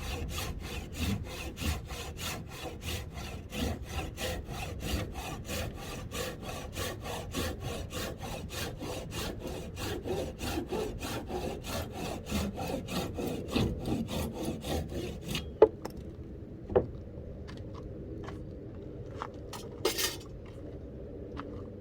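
Hand saw cutting through wood in steady back-and-forth strokes, about two and a half a second. The sawing stops about three-quarters of the way through, followed by a few sharp knocks of wood.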